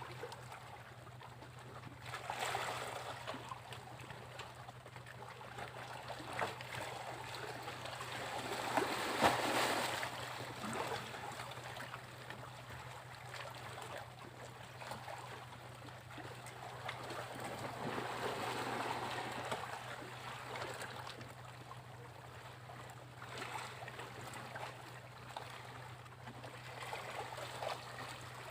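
Sea waves washing onto a beach, surging and falling back several times, with the biggest surge about a third of the way in.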